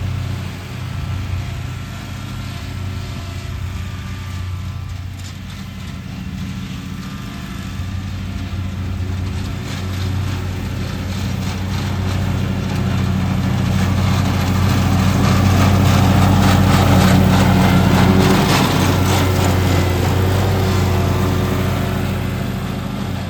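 Lawn mower engine running steadily while mowing, growing louder through the middle and easing off near the end.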